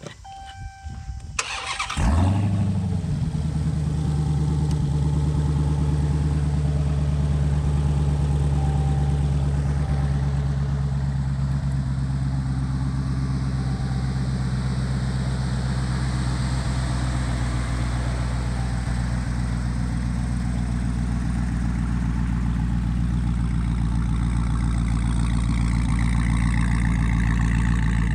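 Supercharged 6.2-litre Hemi V8 from a 2018 Dodge Challenger SRT Hellcat, on a pallet run stand, starting: a few short electronic beeps, then it cranks and fires about two seconds in with a brief flare, and settles into a steady idle.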